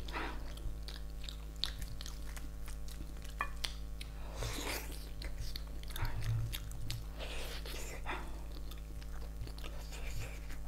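Close-miked chewing and biting of braised pig's trotter, with irregular mouth clicks throughout, over a steady low hum.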